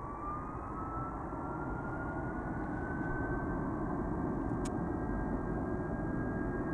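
Jet engines of a Boeing 757-200F freighter spooling up, a whine that rises in pitch over a few seconds and then holds, with the engine noise growing louder.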